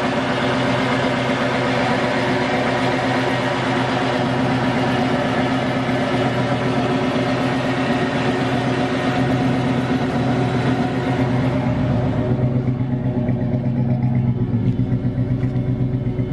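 Chevy small-block 305 V8 running through Delta 40 Flowmaster mufflers with side-exit tips, a steady loud exhaust note. About twelve seconds in, the higher hiss drops away and the note settles into a lower, pulsing beat.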